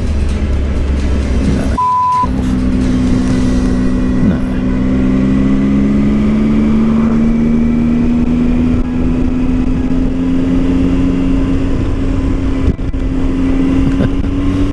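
Triumph Tiger 800 three-cylinder engine running under way, its note rising slowly as the bike gathers speed, with wind noise. About two seconds in, the sound cuts out briefly and a short steady beep sounds.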